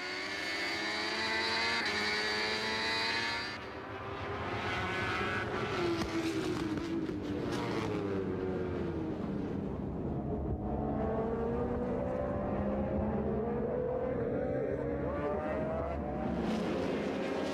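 MotoGP race motorcycle engines at race speed, several stacks of engine notes climbing and falling in pitch as the bikes rev through the gears and pass. There is a short drop in loudness about three and a half seconds in.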